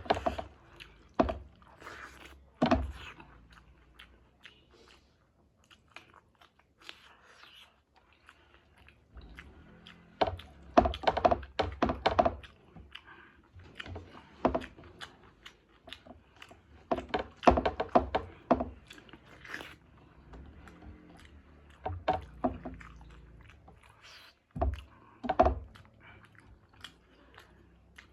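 Close-up eating sounds: chewing and biting food with crunchy, wet mouth noises, coming in bursts a few seconds apart.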